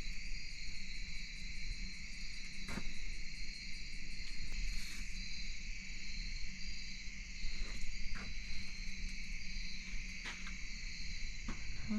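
Steady outdoor insect chorus, a continuous high trilling like crickets, with a few brief clicks or knocks of handling noise now and then.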